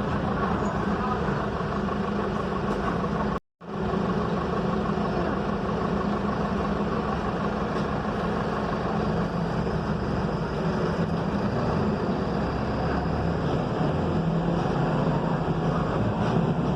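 Mercedes-Benz OF-1721 BlueTec 5 city bus, its front-mounted diesel engine running steadily under way with road noise. The sound cuts out completely for a moment about three and a half seconds in.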